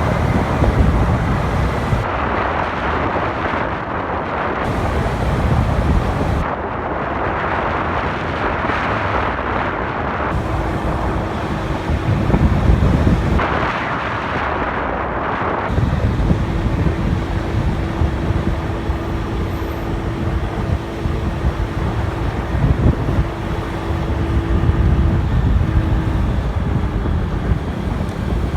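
Wind rushing over a motorcycle-mounted microphone, with the motorbike's engine running underneath. A steady hum joins about ten seconds in and holds for most of the rest.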